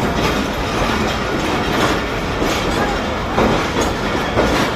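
Rehman Baba Express passenger train rolling along the track: a steady rumble of the coaches, broken by repeated clacks as the wheels cross rail joints.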